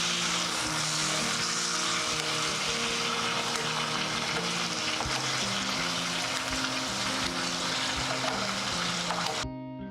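Meat sizzling and crackling as it grills over an oak-wood fire, with background music of steady plucked notes underneath. The sizzling cuts off suddenly near the end, leaving only the music.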